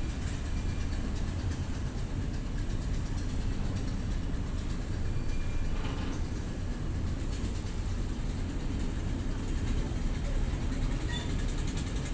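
Steady low engine drone of a passenger river launch under way, even and unbroken.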